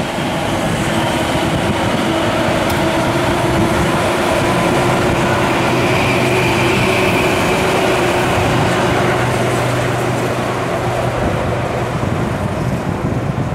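Tobu 9000-series electric commuter train running past over a bridge: steady wheel-on-rail running noise with a low hum underneath.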